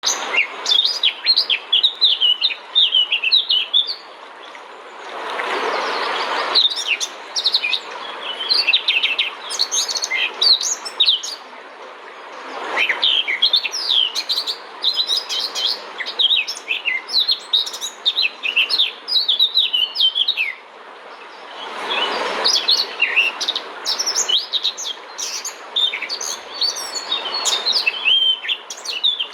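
Many small birds chirping in rapid, overlapping high calls, with a few short bursts of rushing noise.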